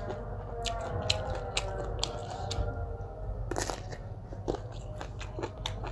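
Close-up eating sounds: food being bitten and chewed with many irregular sharp crunches and mouth clicks.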